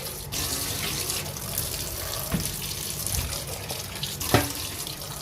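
Water running from a kitchen tap into a sink while the birds' water container is being washed, with a sharp knock about four seconds in.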